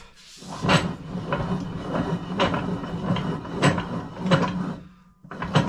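Drill press running, with irregular sharp clicks and clatter over its steady hum, starting about half a second in and stopping just before the end.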